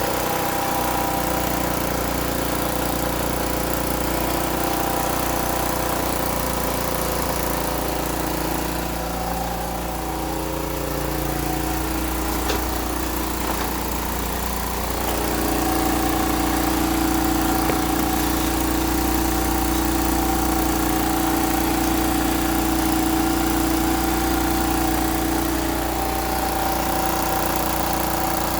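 Suzuki Let's 4 scooter's small four-stroke single-cylinder engine idling steadily after a piston replacement. Its note shifts slightly and runs a little louder from about halfway.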